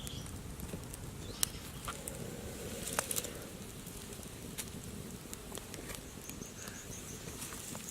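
Steady outdoor background noise with a few sharp knocks, the loudest about a second and a half in and again about three seconds in. Near the end there is a short run of about six quick high chirps.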